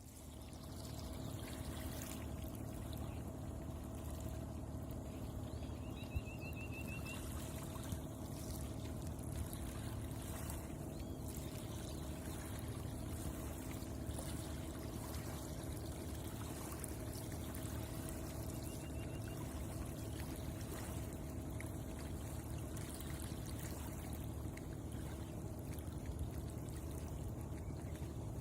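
Shallow water trickling and flowing steadily, fading in at the start.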